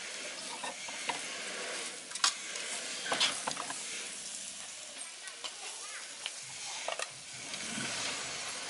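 Crocodile meat sizzling steadily as it fries, being stirred, with a few sharp clicks of the utensil against the pan, a cluster of them about three seconds in.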